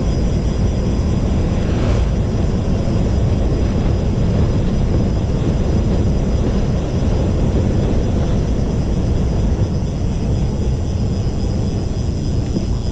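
Wind buffeting the microphone of a camera on a moving bicycle: a loud, steady low rumble with no breaks.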